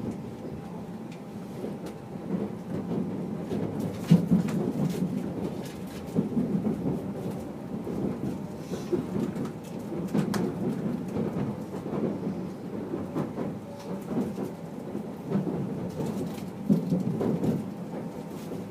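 Running noise inside the cabin of a limited-express electric train under way: a steady low rumble with a few louder knocks, the strongest about four seconds in.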